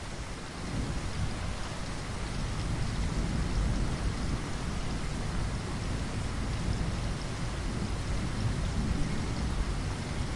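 Steady heavy rain pattering against window glass, with a low rumble that swells about a second in and carries on underneath.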